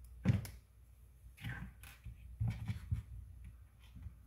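A handful of light clicks and knocks, spread unevenly over about four seconds, from small plastic model-car parts and screws being handled and fitted by hand.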